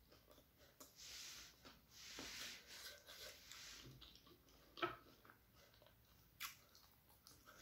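Soft, quiet chewing and mouth sounds of a person eating a crumbed egg devil with tomato sauce, with two sharp clicks, the first about five seconds in and the second a second and a half later.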